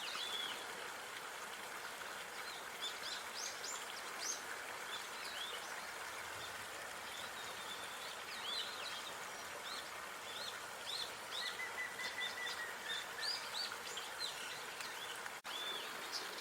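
Outdoor park ambience: many small birds chirping in quick short calls, plus one brief high trill, over a steady background hiss. The sound cuts out for an instant about a second before the end.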